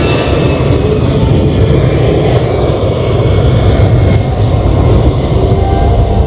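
Airliner engines running loud and steady close by, a heavy rumble with a roar over it, as an aircraft takes off or lands.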